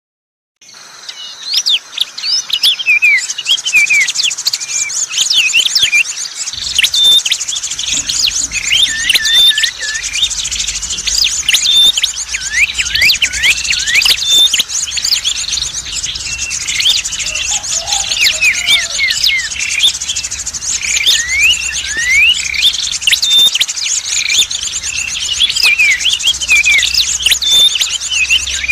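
Bird-lure recording of small songbirds calling, meant to draw tailorbirds: dense chirping and twittering with quick rising and falling whistled notes over a rapid high trill that runs throughout. It starts abruptly just after the beginning, and a low hum joins about six seconds in.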